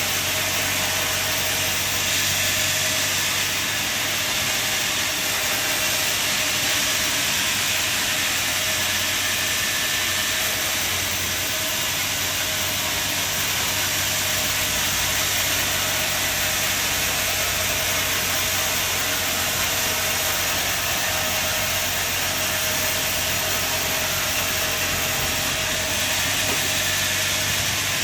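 Sawmill machinery running, a steady mechanical hiss with a low hum underneath that holds even throughout.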